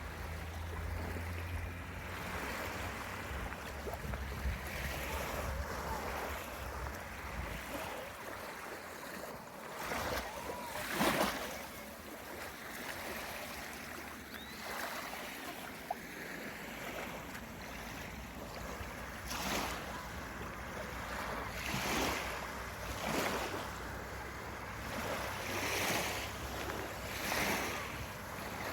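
Small waves of the Sea of Azov breaking and washing up on a beach, a new swell of surf every couple of seconds, the loudest about eleven seconds in. A low steady rumble sits underneath for the first several seconds.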